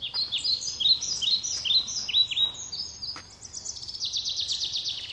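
Small songbirds chirping: a quick series of short chirps, about three a second, then a fast rattling trill of rapid repeated notes from about halfway through.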